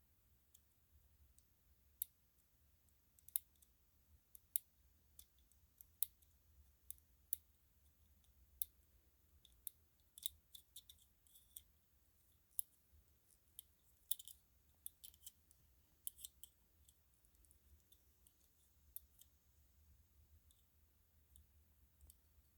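Light plastic string-light bulbs and sockets being handled: dozens of sharp, irregular small clicks and taps, thickest in the middle and sparse toward the end.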